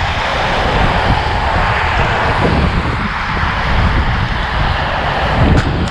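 Steady rushing wind and road-traffic noise heard from a moving bicycle, with a heavy rumble of wind on the microphone.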